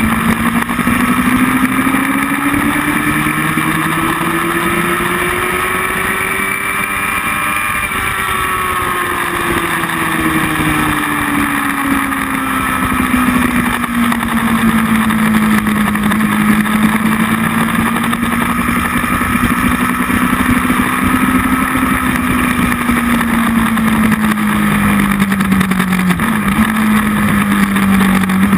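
Motorcycle engine at speed on track, heard from an onboard camera over heavy wind rush. The engine note climbs for about eight seconds, falls away and holds lower, with a brief dip near the end.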